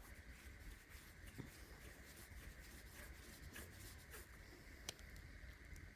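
Near silence with faint rubbing and scattered light ticks of fingers rolling a small piece of polymer clay into a thin strand on a work surface, over a low steady hum; one slightly sharper tick about five seconds in.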